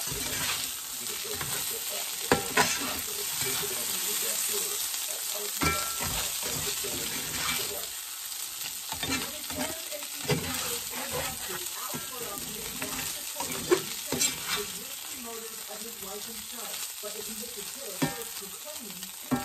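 Potatoes, corn and okra frying in a cast iron skillet with a steady sizzle, while a spatula turns them, scraping and knocking against the pan now and then.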